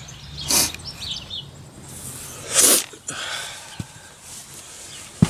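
Garden birds chirping in the background, broken by two short rushing noises, the louder one about two and a half seconds in, and a couple of light clicks near the end.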